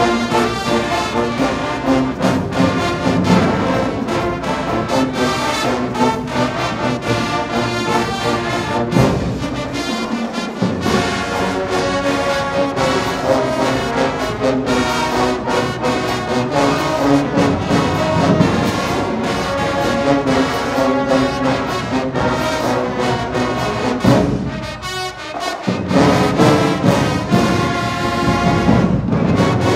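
High school marching band playing, brass section carrying the melody over drumline percussion with a steady beat.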